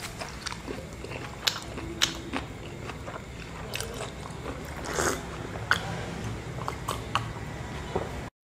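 A man chewing a mouthful of fried beef and okra, with scattered short mouth clicks and smacks over a low steady room noise. The sound cuts off suddenly near the end.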